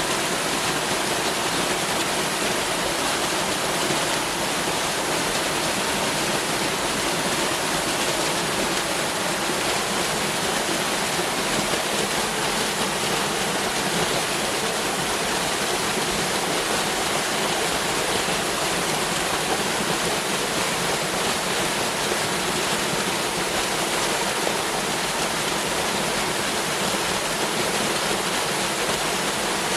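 Waterfall's water pouring and splashing in a steady, unbroken rush.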